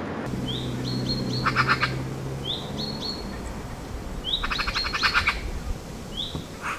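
A songbird singing: short rising whistled notes, twice running into a fast rattling trill, with a low steady hum beneath the first half.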